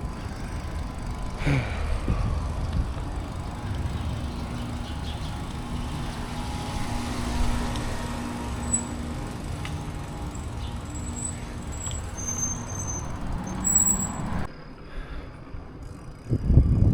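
Wind rumbling on the microphone of a camera on a moving bicycle, with road traffic going by. The sound drops suddenly about fourteen and a half seconds in, and a loud gust of wind comes near the end.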